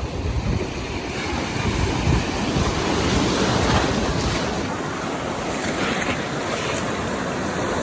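Ocean surf washing onto the beach in a steady rush that swells a little midway, with wind rumbling on the microphone.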